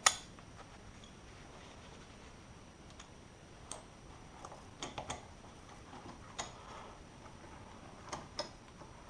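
Scattered light clicks and taps of small metal car parts and hand tools being handled, with a sharper click right at the start.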